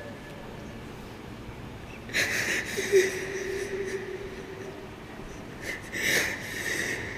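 A man weeping: two sharp, sniffling breaths about two and six seconds in, with a short held whimper between them.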